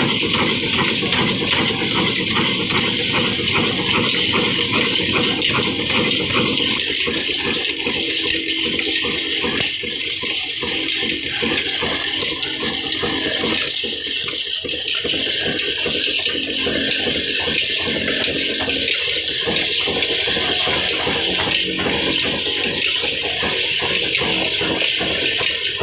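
Desi diesel oil engine running steadily with a fast, even mechanical clatter.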